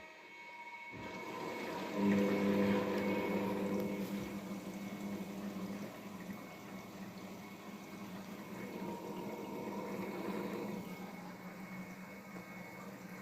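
Daewoo DWD-FT1013 front-loading washing machine filling with water at the start of its hand-wash cycle: water rushes in from about a second in, and a steady low hum joins it about two seconds in.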